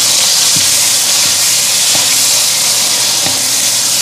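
Spice paste sizzling in a little oil in a stainless steel wok, a steady hiss, as it is stirred with a wooden spatula that knocks lightly against the pan three times.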